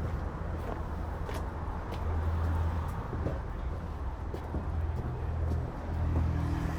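Ducati Multistrada V4 engine idling steadily at a standstill, a low even hum.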